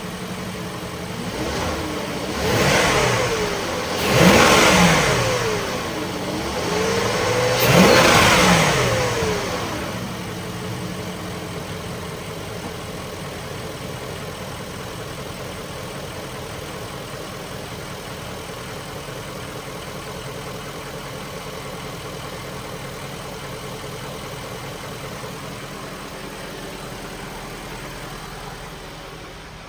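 2003 Range Rover HSE's 4.4-litre V8 revved three times, each rev rising and falling back, then settling to a steady idle about ten seconds in. The engine is still warming up after a cold start.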